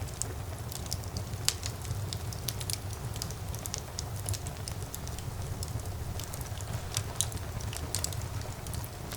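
Wood fire burning in a fireplace: a steady low rumble of the flames with irregular sharp crackles and pops, one louder pop about one and a half seconds in.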